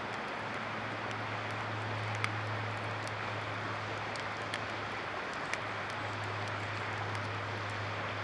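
Campfire wood crackling with a few sharp, scattered pops, over a steady rush of flowing river water and a constant low hum.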